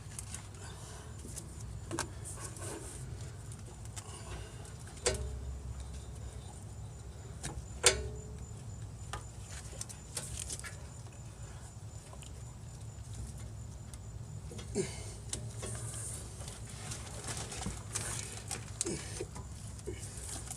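Scattered clicks, clinks and knocks of hands working a rubber exhaust hanger and the metal exhaust pipe under a car, trying to push the hanger onto its rod, with a sharp knock about 8 seconds in. A low steady rumble runs underneath.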